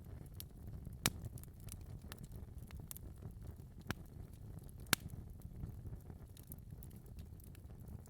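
Wood fire burning in a fireplace: a low steady rumble of flames with scattered sharp crackles and pops, the loudest pops about one second in and again around four and five seconds in.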